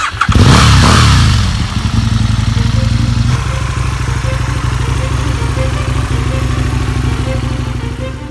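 Aprilia Tuono Gen 1's 998 cc V-twin engine starts up with a loud flare of revs that falls away within a second or so. It then settles into a steady idle.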